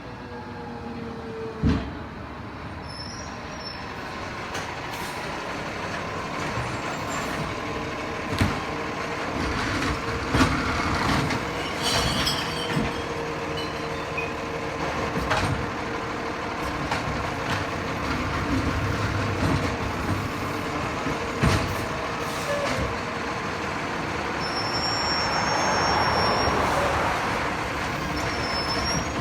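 Diesel McNeilus Zero Radius garbage truck running and growing louder as it draws closer. Several sharp knocks and bangs sound along the way.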